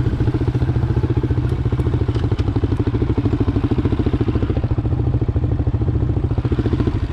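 Honda CRF230F's air-cooled single-cylinder four-stroke engine running steadily at low revs, with an even, rapid firing pulse.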